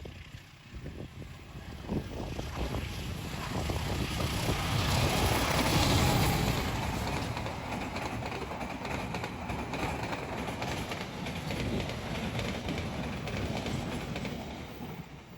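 A KRDE Bias diesel-electric train passing on the rails. A rumble with rapid wheel-on-rail clatter builds to its loudest about six seconds in, holds steady, then fades near the end.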